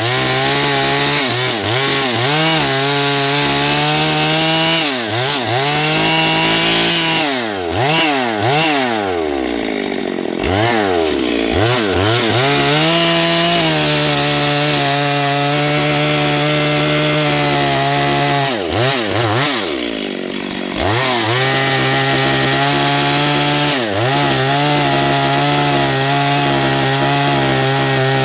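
Chainsaw running at high revs as it cuts into wood. Its pitch sags and swoops back up several times in the middle and again about two-thirds through, as the saw bogs in the cut and is throttled back up.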